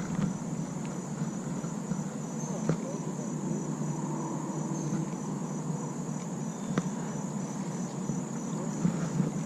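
Insects, crickets or similar, trilling steadily at a high pitch, over a low steady outdoor rush, with a few faint clicks.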